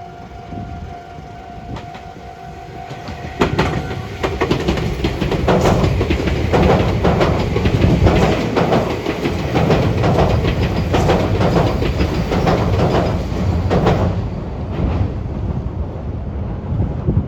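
Electric train passing over the junction's points, its wheels clacking over the rail joints in a rapid run of sharp knocks over a heavy rumble. It starts about three seconds in and ends abruptly near fourteen seconds, then fades into a lower rumble.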